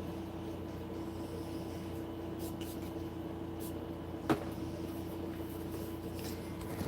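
A steady low mechanical hum with a constant tone, broken by a single sharp click about four seconds in.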